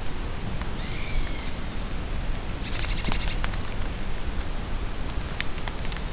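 Steady rain falling in a forest with scattered drips, and songbirds calling over it: a warbled phrase about a second in, a rapid buzzy trill around three seconds, then a few short high chirps.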